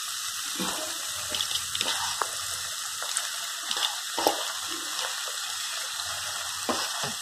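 Onion-tomato masala sizzling in a frying pan as raw prawns are added: a steady hiss with a few faint ticks.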